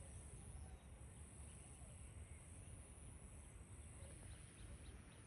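Near silence: faint outdoor background with a low rumble and a steady, thin, high-pitched hiss-like tone.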